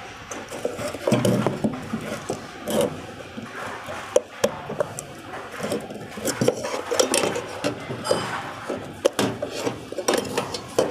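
Irregular clicks, knocks and scraping as a car's engine control unit (ECU) casing is handled and pried open by hand, to check the circuit board for water damage.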